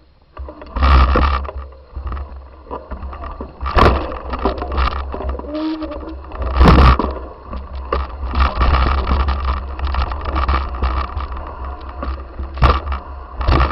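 Wind buffeting the microphone in uneven gusts, with scraping and rattling on top and strong surges about one, four and seven seconds in.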